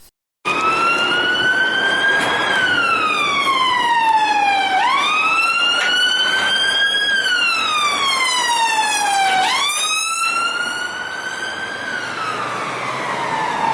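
Electronic siren wail, rising for about two seconds and then falling for about two, repeated about three times.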